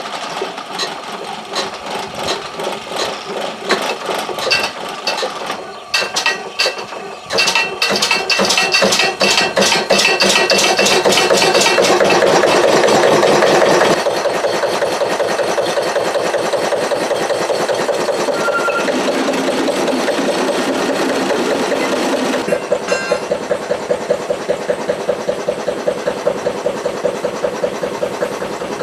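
A stationary engine, started with its electric starter motor, running and driving a line shaft and vintage bandsaw through a clutch. It clatters unevenly at first, builds to a loud, fast run, settles to a steadier running sound about 14 seconds in, and takes on an even pulsing beat about 22 seconds in.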